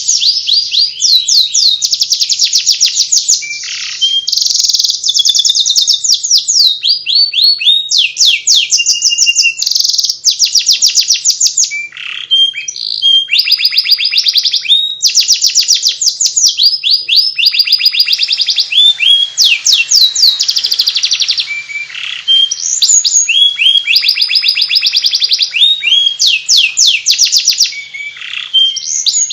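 Domestic canary singing in the chattering 'ngeriwik' style: a continuous, high-pitched run of fast repeated chirps, rapid trills and quick pitch sweeps, with only brief pauses between phrases.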